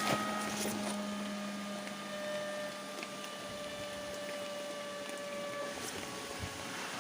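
A motor runs steadily over a constant hiss, its hum sinking slightly in pitch.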